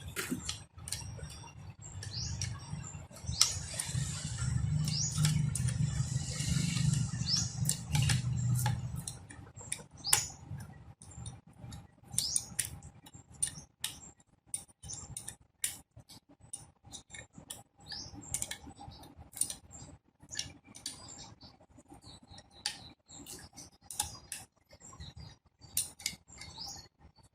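Scattered light clicks and taps, with a steady low hum that comes in a few seconds in and stops after about five seconds.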